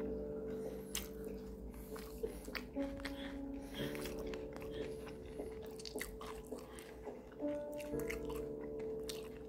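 Close-up chewing and crunching of bites of pan-fried dumplings and spicy cabbage salad (bibim mandu), many small irregular crunches, over soft background music with long held notes.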